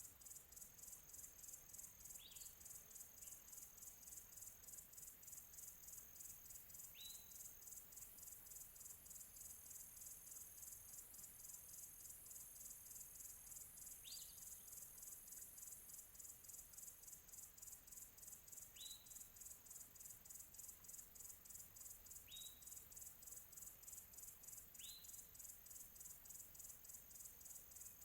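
Faint chorus of crickets chirping in a fast, even, high-pitched pulse. A bird gives a single short chirp every few seconds, about six times.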